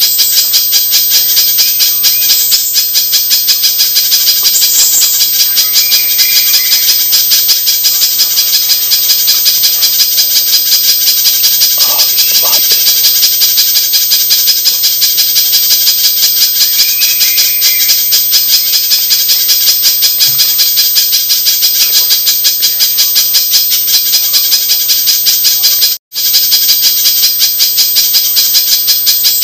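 Recording of a spiderhunter (pijantung) calling, played as a bird-lure track: a dense, rapid, unbroken chatter of high notes. It cuts out for an instant near the end.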